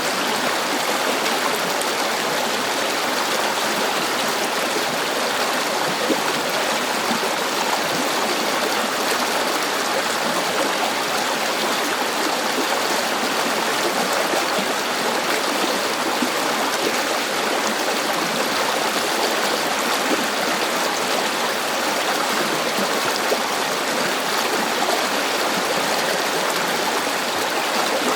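River water flowing and rushing over rocks: a steady, even splashing with no change.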